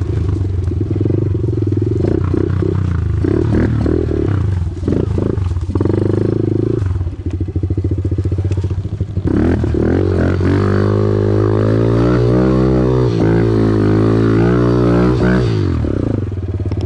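Small four-stroke pit bike engine working hard up a steep hill, its revs rising and falling with the throttle. From about ten seconds in it is held at high revs, climbing in pitch, then drops off sharply about fifteen seconds in, as the attempt fails.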